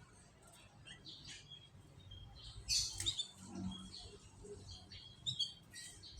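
Canaries chirping and calling in short, scattered high notes, with a louder burst of chirps about three seconds in.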